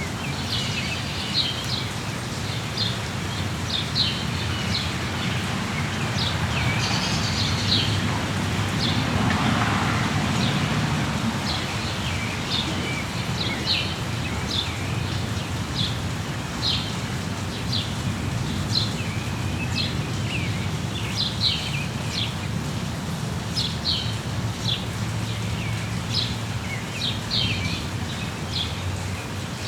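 Steady rain with birds chirping over it: short, high chirps repeating about every second.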